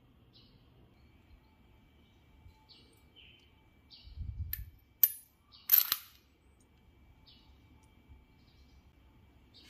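Two sharp metallic clinks of hand tools being handled, about five and six seconds in, the second the louder, with a short low rumble just before them and faint bird chirps recurring throughout.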